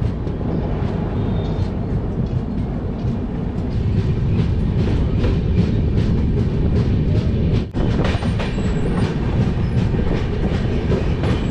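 Shatabdi Express train running at speed: a steady rumble with rapid wheel clicks over the rail joints, cut by a brief break about eight seconds in.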